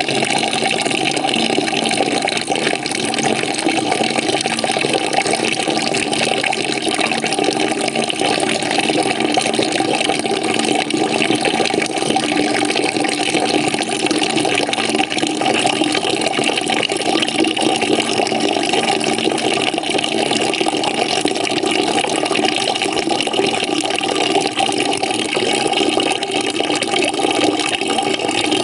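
Water running steadily into a bucket as it fills, a continuous splashing rush with no breaks.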